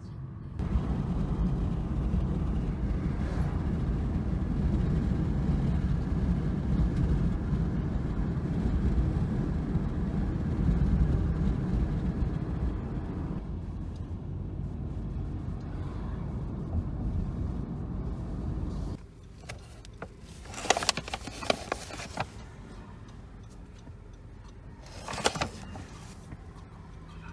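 Low, steady rumble of a running vehicle that stops abruptly about two-thirds of the way through. A quieter stretch follows, with two short bursts of clicking and rustling.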